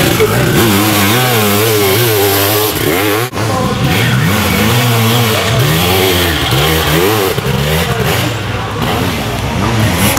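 Sidecarcross outfits' motorcycle engines revving hard, the pitch rising and falling over and over as they accelerate and back off through the turns. The sound breaks off briefly about three seconds in, then carries on with another outfit.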